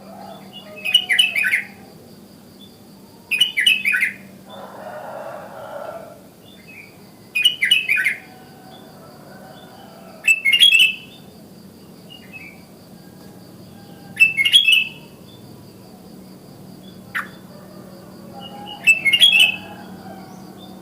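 Sooty-headed bulbul (kutilang) singing: six short, loud, bubbly song phrases of about a second each, repeated every three to four seconds, with one brief single note between them. A steady faint high whine runs underneath.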